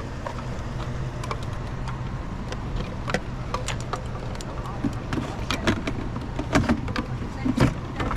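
A vehicle engine idling steadily, with scattered clicks and knocks that come more often in the second half.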